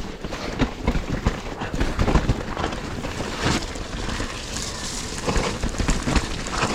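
Mountain bike being ridden down a wet, muddy trail: tyres squelching and hissing through the mud, with chain and frame rattling and repeated knocks from the bumps.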